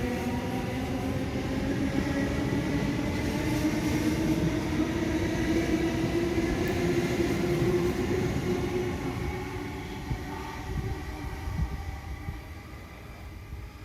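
Electric suburban train pulling away from the platform: the traction motors whine, slowly rising in pitch over the rumble of the wheels, then the sound fades away after about nine seconds.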